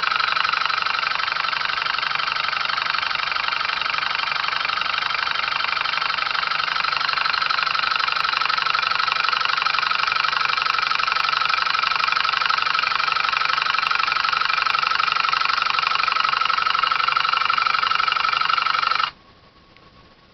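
Homemade electric motor built from microwave oven transformer coils and magnetron magnets, switched by reed switches and relays, running steadily at about 32 volts and 1 amp. It cuts off suddenly near the end.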